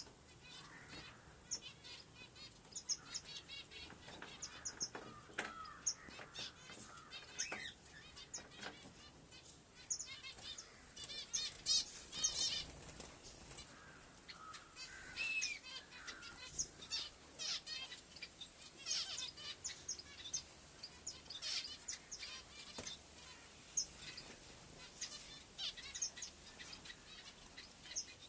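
A flock of small pet birds chirping and twittering, with many short high calls and quick trills overlapping.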